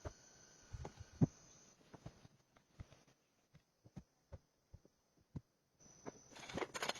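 Scattered light knocks and clicks, with a louder knock just after a second in, then dense rustling and crackling from about six seconds.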